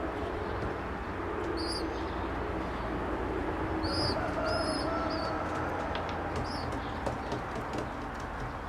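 Homing pigeons cooing over a steady background murmur, with short high chirps breaking in a few times.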